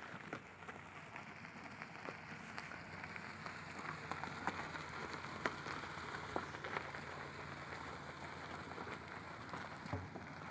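Car tyres rolling on a rough gravel road: a steady crackling hiss dotted with many small ticks.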